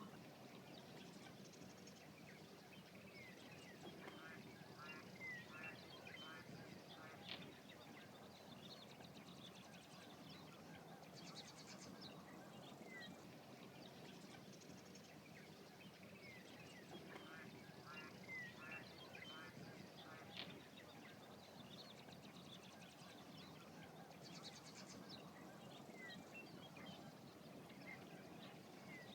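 Faint wetland ambience: birds giving many short chirps and calls, with a couple of quick runs of repeated notes, over a steady low background rumble.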